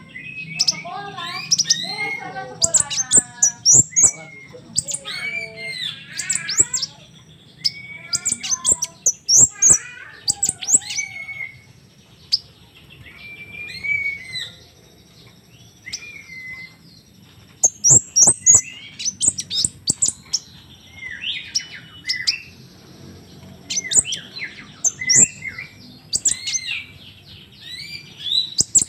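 Crimson sunbird song: repeated bursts of rapid, very high chirps and short trills, mixed with lower whistled notes that rise and fall, over a faint low hum.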